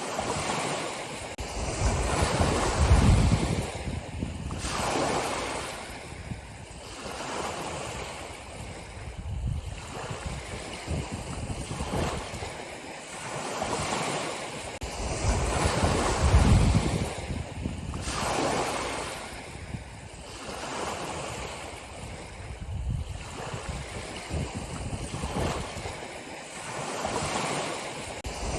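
Ocean waves breaking and washing up on a shore, the surf swelling and falling back every few seconds. Irregular low rumbles of wind buffet the microphone.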